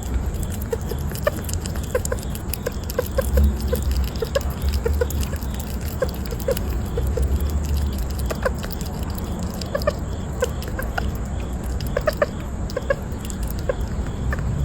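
An animal giving many short, irregular clucking chirps over a steady low hum.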